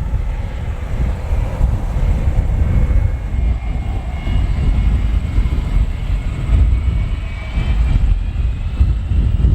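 Airplane engines running with a high whine that slides slowly lower in the second half, over a heavy, gusting wind rumble on the microphone.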